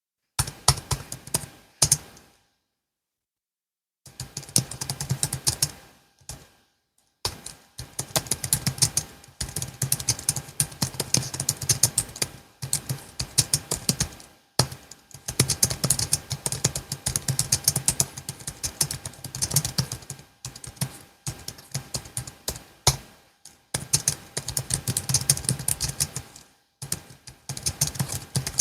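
Typing on a Logitech MX Keys S low-profile keyboard: fast runs of soft key clicks in bursts of a few seconds, broken by short pauses.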